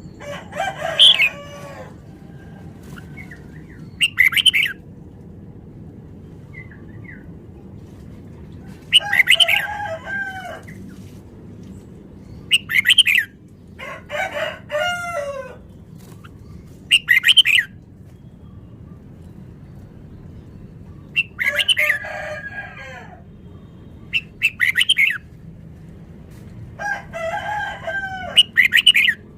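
Red-whiskered bulbul singing short, quick warbled phrases, about nine in all, separated by pauses of a few seconds, over steady low background noise.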